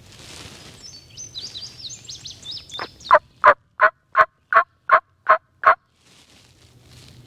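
A run of eight loud turkey yelps, evenly spaced at about three a second, starting about three seconds in. High, quick chirps come just before them.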